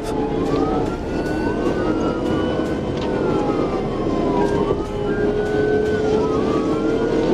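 Police siren wailing, its pitch sweeping up and down every two to three seconds, over a steady engine drone and road noise during a high-speed pursuit.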